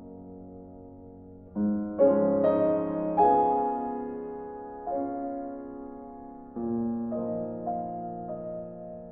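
Slow piano music: chords and single notes struck every second or so, each ringing on and fading before the next.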